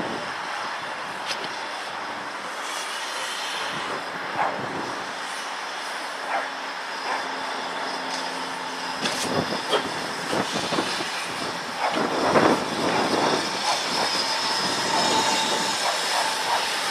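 A train approaching on the rails, its running noise growing louder, with scattered clicks and knocks from the wheels. A thin, steady squeal sets in near the end.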